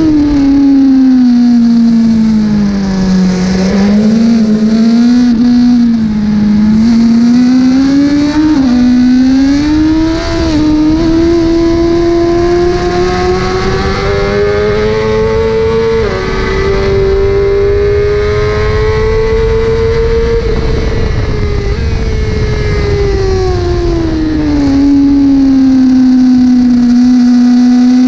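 Racing 1000 cc superbike engine at full race pace, its note falling under braking and climbing through the revs, with quick step-like gear changes and long sweeps of rising and falling pitch.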